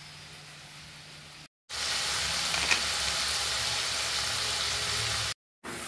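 Steady sizzle of a tomato, onion and carrot masala frying in coconut oil in a metal kadai. It starts suddenly about a second and a half in, after a short stretch of quiet room tone.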